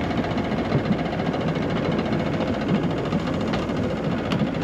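Outboard motor running in gear, a steady, rough, loud engine noise.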